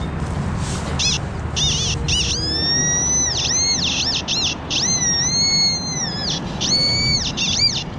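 XP Deus metal detector giving target tones as the coil passes back and forth over a buried target: a few short beeps, then longer high tones that bend up and fall away at each pass. A steady low rumble of handling and ground noise runs underneath.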